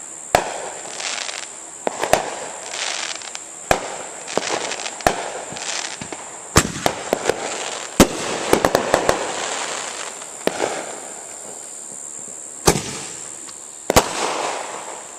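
Neighbourhood consumer fireworks going off: repeated sharp bangs at irregular intervals, with a quick run of crackling pops about halfway through.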